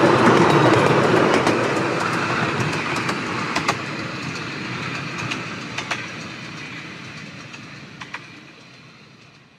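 Miniature railway passenger train running away along the track: wheels rumbling on the rails, with sharp clicks as the carriages cross rail joints, fading steadily as it draws away.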